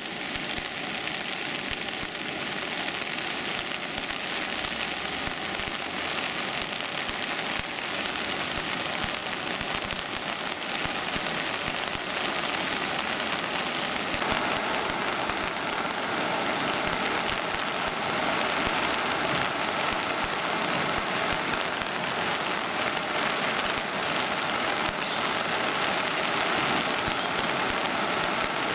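Steady rush of water from the flood, an even hiss with no separate splashes, growing slightly louder about halfway through.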